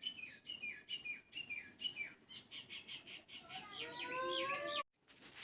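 Parrots chirping: a string of short falling chirps at about three a second, then quicker chirps and a louder drawn-out gliding call that cuts off suddenly near the end.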